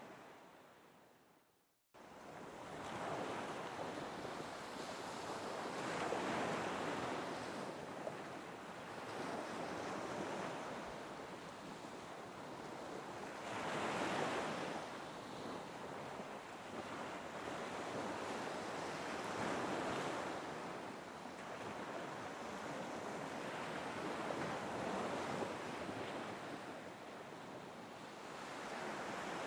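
Recorded ocean surf: waves washing in and drawing back in slow surges every several seconds. It starts abruptly about two seconds in, after a moment of near silence.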